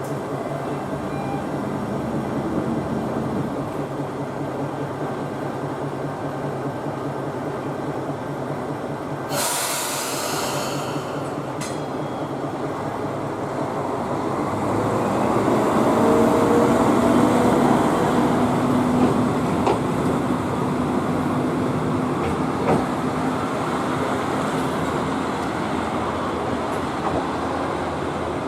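Nishikigawa Railway diesel railcar running along the line, heard from inside the car: a steady engine and rail-running noise. About a third of the way through there is a short hiss. From about halfway it grows louder, with a tone that rises and then holds.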